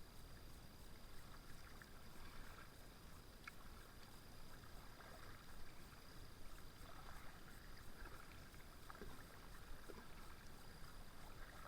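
Very quiet river scene with faint kayak paddle strokes: a few soft splashes and drips on calm water.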